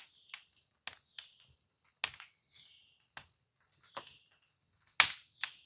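Insects trilling steadily at a high pitch, with a campfire crackling and popping in irregular sharp cracks, the loudest about five seconds in.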